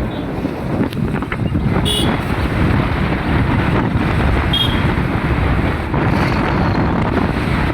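Steady rumble of road vehicles mixed with wind buffeting the microphone, with two brief high chirps about two and four and a half seconds in.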